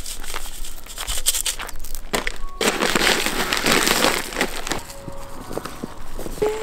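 Irregular crunching and crackling of rock salt being spread on snow-covered stairs, with a stretch of steady hiss in the middle.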